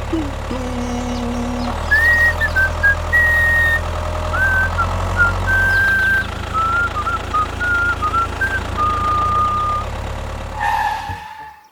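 Mini tractor engine running with a steady low hum, and a whistled tune over it from about two seconds in. Both cut off abruptly near the end.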